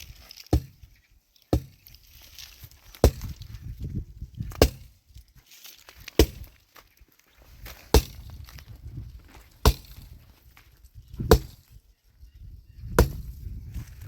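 Wood being chopped by hand: nine sharp blows, evenly paced, about one every second and a half.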